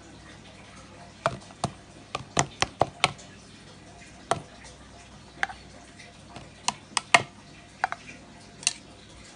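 Irregular sharp knocks and clicks of hard objects, with a quick run of about seven in the first few seconds and then single ones scattered through the rest.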